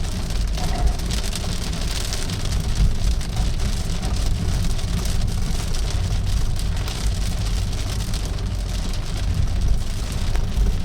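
Heavy storm rain falling on a moving car, with a steady low rumble of the car driving on a wet road.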